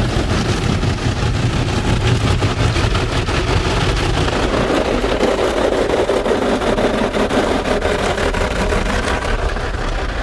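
Belanger Freestyler car wash machinery heard from inside the car: water spray and steady equipment noise. From about four seconds in, a loud buzzing drone from the top brush swells for several seconds, extremely loud and like a badly sounding old electromechanical horn or fire alarm.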